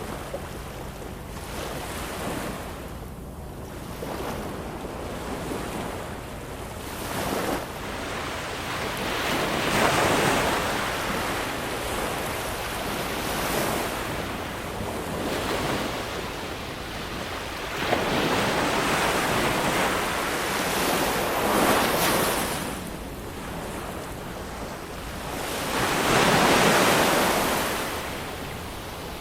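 Ocean waves breaking and washing up the shore. The hiss swells and falls back with each wave, several surges in all, the strongest near the end.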